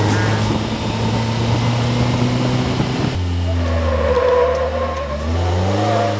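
Ariel Nomad's engine running on the move, heard from inside its open cockpit. The engine note drops about three seconds in as the driver comes off the throttle through a bend, then rises again near the end.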